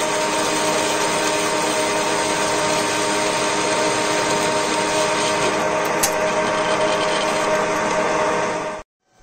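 Power tool running steadily, a loud even whirr over a steady multi-tone hum, cutting off suddenly near the end.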